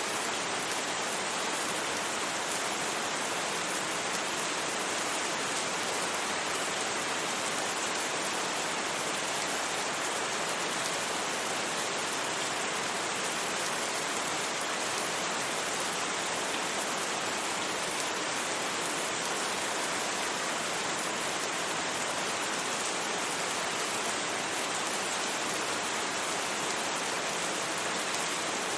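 Steady rain, an even hiss that holds unchanged, with no thunder and no separately heard drops.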